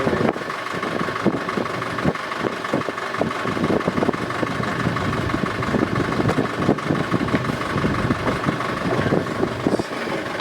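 A motor aboard the sailing yacht runs steadily with a fast, even chugging and a steady hum. The hum stops at the very end.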